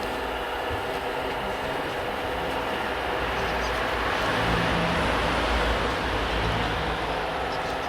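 Radio-controlled model vehicle running, a steady mechanical whir with several steady tones that grows a little louder in the middle and eases near the end.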